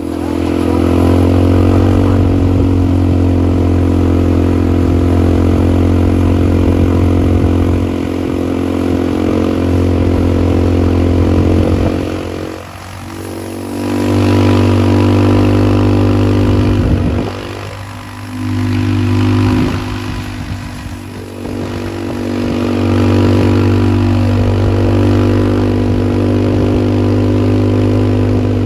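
ATV engine running under throttle. It eases off and picks up again three times partway through, then holds steady.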